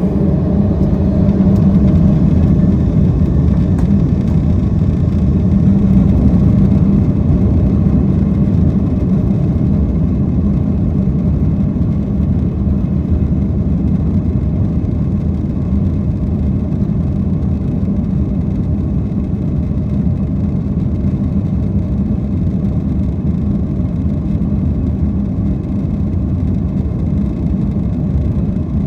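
Cabin sound of a Boeing 767-400ER's twin turbofan engines at takeoff power during the takeoff and climb-out: a loud, steady rumble with a low hum, easing slightly after the first several seconds.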